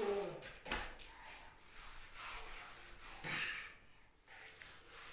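Paintbrush rubbing against a surface in short, irregular strokes, with a small child's brief vocal sounds and breathing.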